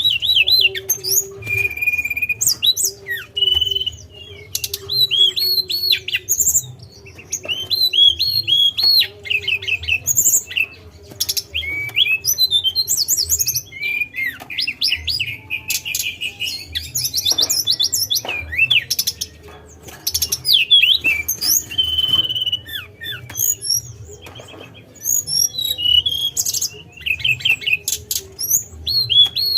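A tledekan, a Cyornis blue flycatcher kept as a songbird, singing continuously: quick, varied twittering phrases with trills and short high whistled notes, broken by brief pauses.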